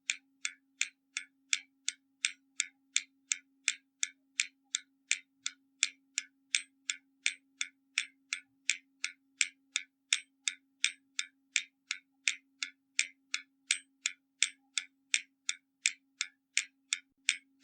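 Hermle mechanical skeleton clock ticking steadily as its escapement runs: sharp, even ticks at about two and a half a second, under a faint steady hum.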